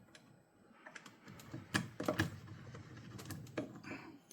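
Light clicks and knocks of small parts being handled at the workbench, with a few sharper clicks about two seconds in and another near the end.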